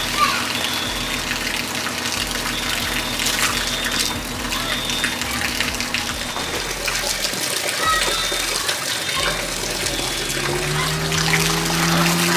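Water pouring steadily from a leaking fire-sprinkler line, a continuous rushing hiss.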